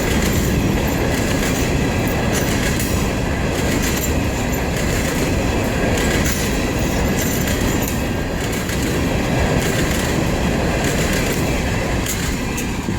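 Freight train cars rolling past, wheels clicking over rail joints, with a faint steady wheel squeal.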